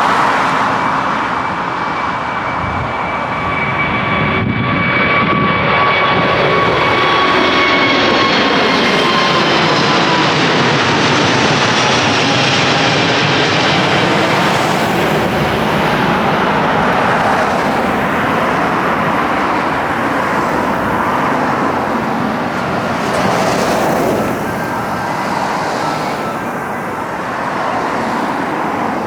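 Widebody jet airliner climbing out low after takeoff and passing overhead: a loud, steady engine roar with whining tones that slowly fall in pitch as it goes by.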